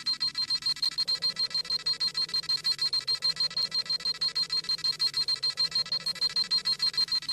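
Dragon Ball Z scouter sound effect: a high electronic beeping that pulses rapidly and evenly, about five to six beeps a second. It is the scouter scanning a power level.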